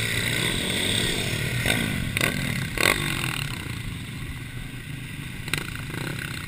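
Mini bike engines running and revving, with the pitch rising and falling in the first few seconds as the bikes race by, and a few brief sharp knocks.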